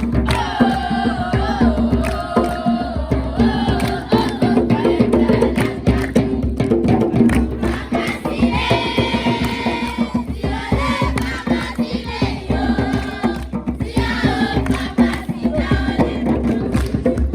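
Singing with rhythmic percussion: a campfire song.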